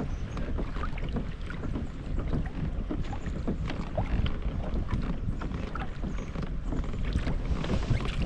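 Wind rumbling on the microphone, with small waves lapping and slapping against the kayak's hull in short, irregular splashes.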